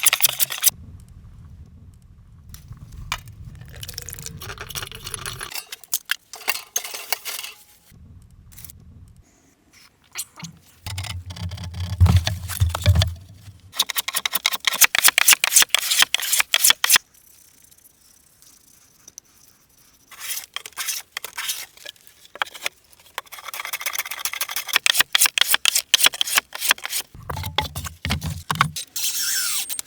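Repeated bursts of crackling and rustling, each lasting a few seconds, with quiet gaps between them. There are low thuds about twelve seconds in and again near the end.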